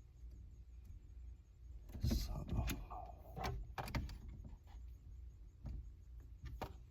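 A few scattered clicks and knocks from working at a stubborn ignition switch lodged in a car's steering column, over a low rumble.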